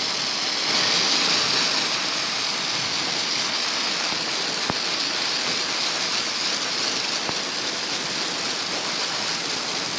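Garden hose spraying a steady hiss of water onto a freshly poured concrete slab, wetting the surface to keep it from drying out as it cures.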